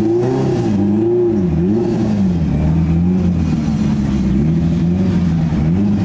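Car engine being revved, its pitch rising and falling several times in quick blips over a steady low rumble.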